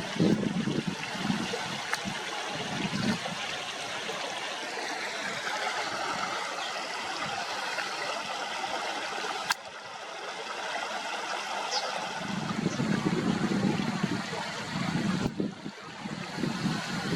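River water running steadily, a rushing trickle, with abrupt jumps where the recording is cut.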